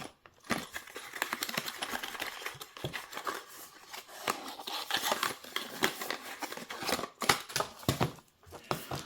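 Packaging being handled while a camera box is unpacked: irregular crinkling, rustling and small clicks, with a few sharper clicks near the end.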